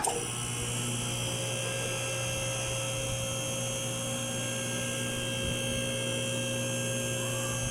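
A steady, unchanging electrical hum with a high whine over it, switching on abruptly.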